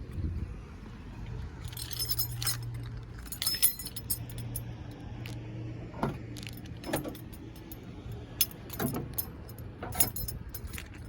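A bunch of keys jingling in short bursts, followed by several light clicks and knocks of handling, over a low steady hum.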